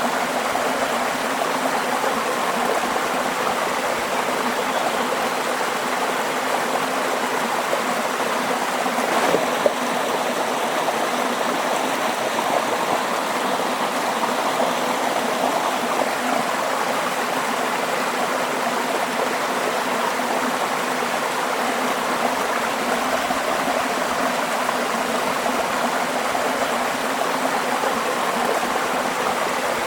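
Water flowing steadily in a stream or small cascade, an even rush without pause. A brief knock about nine seconds in.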